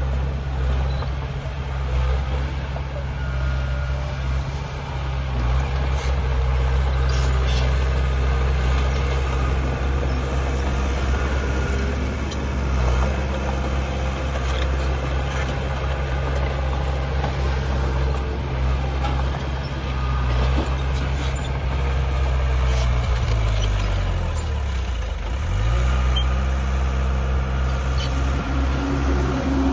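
Heavy diesel engine of earthmoving machinery running steadily, with scattered metallic clanks. About 24 seconds in, the engine pitch sags and then climbs back up.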